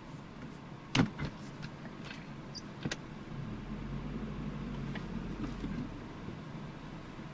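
The 1984 Nissan N12's 1.5-litre four-cylinder carburettor engine running steadily, with a sharp click about a second in and a few lighter clicks after. From about three seconds in a deeper rumble joins for a few seconds, then fades.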